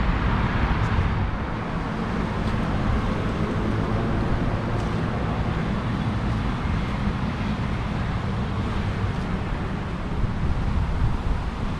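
Steady city traffic noise: a continuous rumble of cars on nearby roads.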